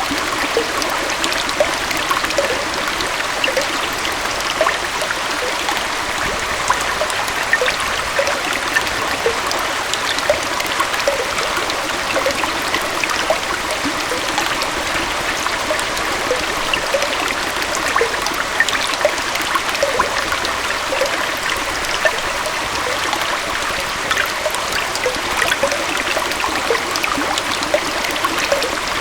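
Small forest waterfall and stream flowing steadily, a continuous splashing rush with many small bubbling and trickling splashes.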